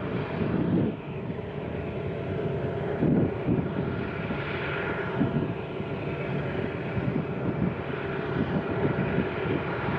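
Union Pacific freight train running past: a steady low drone of diesel locomotives and rolling stock, swelling a little now and then.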